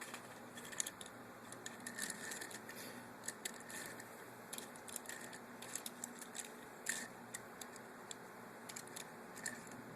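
Faint, scattered clicks and taps of a small plastic battery-powered toy train being handled and rolled by hand on its plastic track, its unpowered wheels turning freely.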